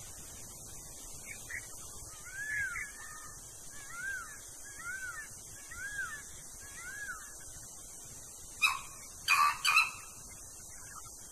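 A bird giving a short whistled note that rises and falls, repeated five times about a second apart. Three loud, sharp, harsh sounds follow near the end.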